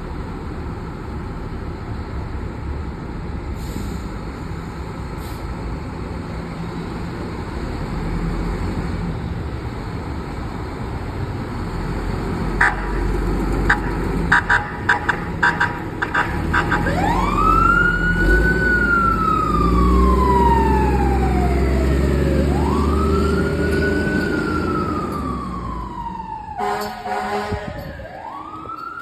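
Fire truck responding: a low engine rumble, then a quick series of short air-horn blasts about twelve seconds in. Then comes the siren in long wails, each rising quickly and falling slowly, three times, with more horn blasts near the end.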